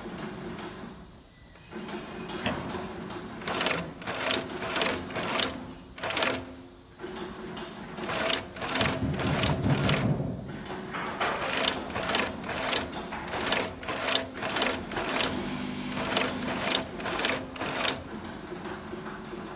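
Shoe-making machinery running: a steady hum with runs of sharp mechanical strokes, about two or three a second, with short pauses between runs.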